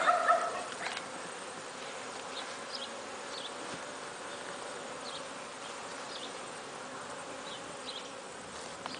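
Steady buzzing of a honeybee colony, its hive open and the top box lifted off. A brief, louder pitched sound sits at the very start, and faint short high chirps come and go.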